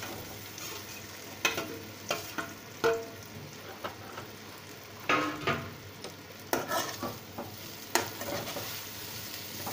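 Pieces of set besan (gram flour) sizzling in hot mustard oil in a steel kadhai, shallow-frying. A steel spoon scrapes and clinks against the pan and plate at irregular moments as the pieces are pushed in and stirred.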